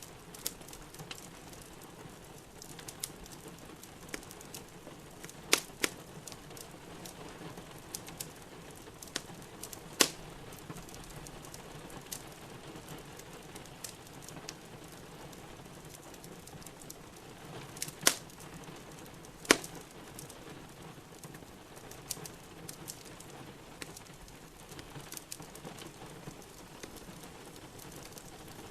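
Wood fire crackling in a fireplace over a steady hiss of rain, with scattered small snaps and a few louder, sharp pops.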